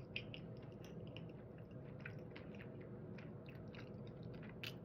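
A person chewing food with the mouth close to the microphone: faint, with soft wet mouth clicks scattered throughout and one sharper click near the end.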